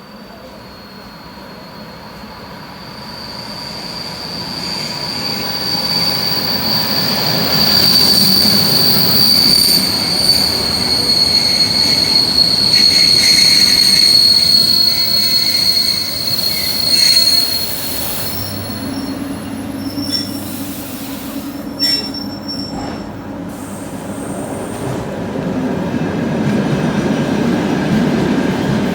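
Electric commuter train arriving with a steady high-pitched whistling squeal that grows louder over the first several seconds and stops a little past the halfway point. A lower hum and rumble of the train follow.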